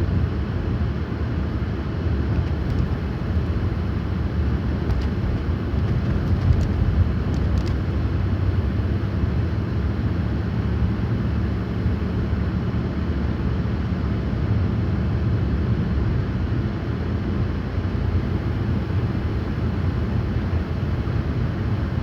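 Car driving slowly on a snow-covered road: a steady low rumble of engine and tyres.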